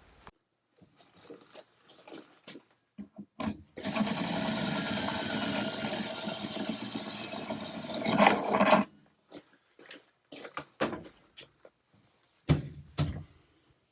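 An old electric drill runs for about five seconds, boring through a double layer of aluminium, and is loudest just before it stops. Scattered clicks and knocks come before and after the run.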